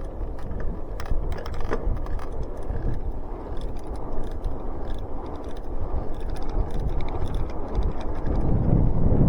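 Bicycle in motion, its drivetrain and squeaky pedal making a run of small irregular clicks and ticks, denser in the second half, over a steady rumble of wind and tyres.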